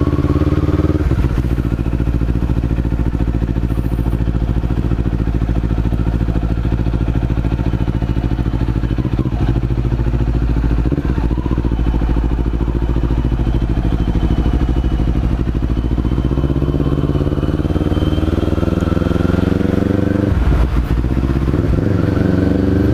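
Kawasaki Z400's parallel-twin engine running steadily, close by; its revs drop about a second in and climb again near the end.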